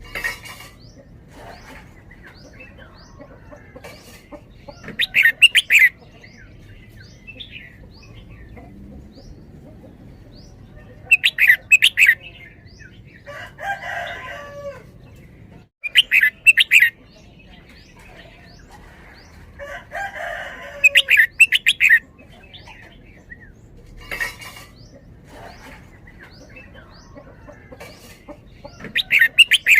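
Red-whiskered bulbul singing loud, short bubbling phrases in the repeated 'doubled' style, about five phrases spaced several seconds apart. Other birds chirp faintly in the background.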